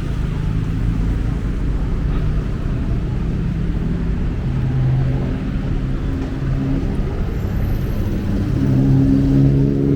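City road traffic: motor vehicle engines running close by, with one engine growing louder near the end.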